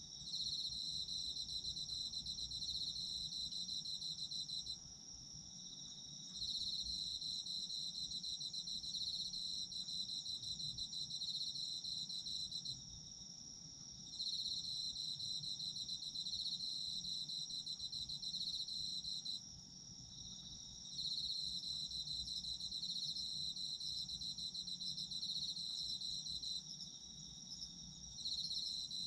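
Autumn insects singing in chorus: one insect trills steadily without a break, while a second, lower one trills in bouts of about five seconds with short pauses between them.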